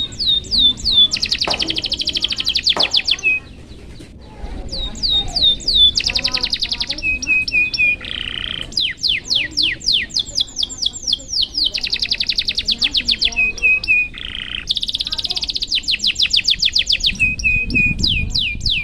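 Domestic canary singing: runs of quick falling whistled notes ('cuit cuit') alternating with fast rolling trills, with a brief pause about four seconds in.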